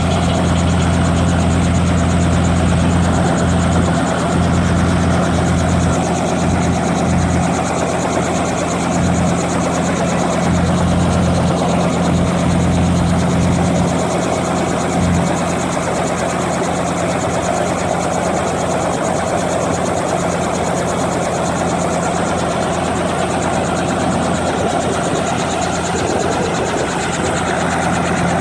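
Tourist helicopter's engine and rotor running steadily in a loud, constant drone, its deep low hum easing slightly about halfway through.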